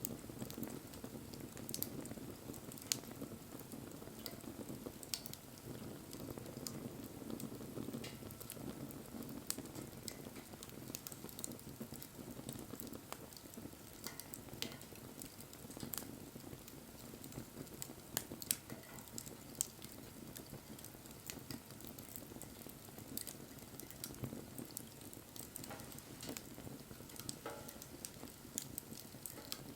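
Wood fire burning: a steady low hiss of flames with frequent, irregular sharp crackles and pops from the burning wood.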